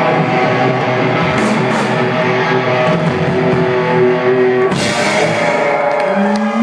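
Rock band playing live: electric guitar chords ringing over a drum kit, with a cymbal crash about five seconds in and a new held low note near the end.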